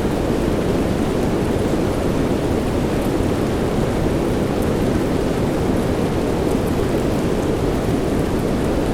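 Steady rain, a dense even wash of noise that is heaviest in the low end, with a few faint scattered drop ticks on top.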